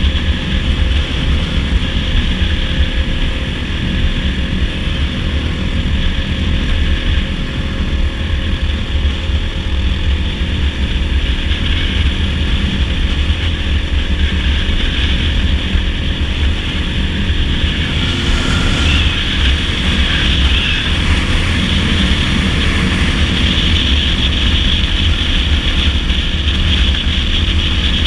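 Dirt bike engine running steadily at cruising speed, with wind rushing over the microphone.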